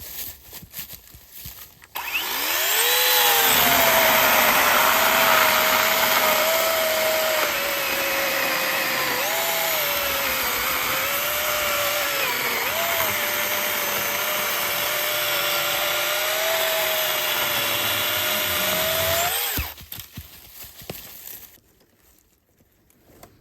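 Cordless battery-powered saw cutting firewood. Its motor spins up about two seconds in and holds a steady whine with brief dips in pitch as it bites into the wood, then stops suddenly a few seconds before the end.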